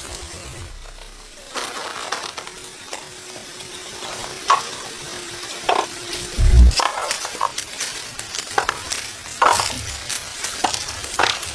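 Irregular crackling and rustling, with a low thump about six and a half seconds in.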